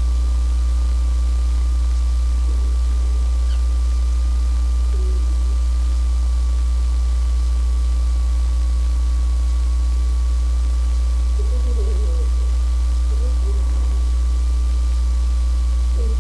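Loud, steady low electrical hum with a thin steady whine above it. A few faint, short warbling sounds come about three quarters of the way through.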